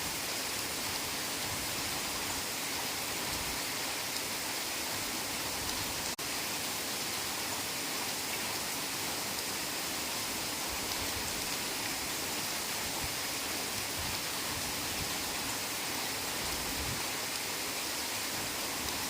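Heavy rain falling steadily, a dense, even hiss with no let-up, briefly dipping for a split second about six seconds in.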